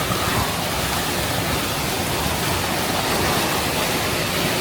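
Tornado rear-flank downdraft winds blasting against a vehicle, rocking it: a loud, steady rush of storm wind.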